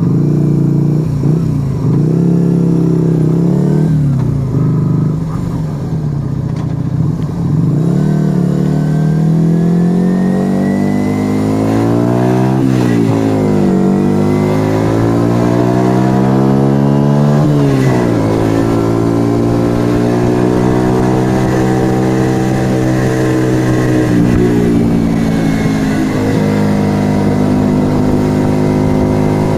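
Yamaha XV125 Virago's small air-cooled V-twin, breathing through a Turbo Kit aftermarket exhaust, heard from the rider's seat. It runs low and uneven at first, then rises steadily in pitch as the bike accelerates. Two sudden drops in pitch, a little under halfway and at about two-thirds, mark upshifts, and it then settles into a steady cruise.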